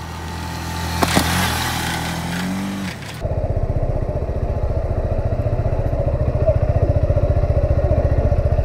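Motorcycle engine running under a rushing hiss, with a knock about a second in. About three seconds in, the sound switches abruptly to a close, steady idle that pulses evenly.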